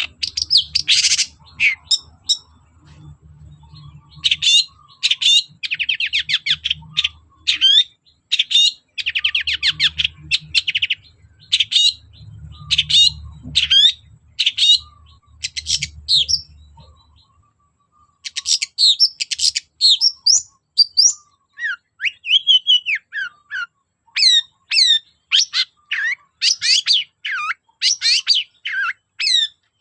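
Long-tailed shrike (cendet) in full song: rapid runs of sharp, high chirps and fast trills, broken by a pause of about a second past the middle.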